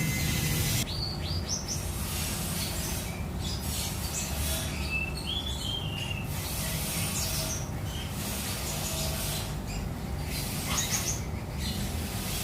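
Sooty-headed bulbul (kapas tembak) giving scattered short chirps and a few whistled, warbling notes, over a steady low background rumble.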